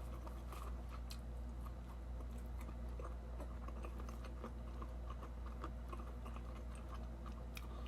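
Faint chewing and small mouth clicks of a person eating, over a steady low hum.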